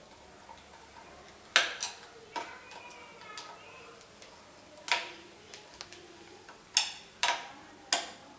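Sharp clicks and knocks of a plastic wall switch being handled and pressed into its box, about nine at irregular intervals, some in quick pairs.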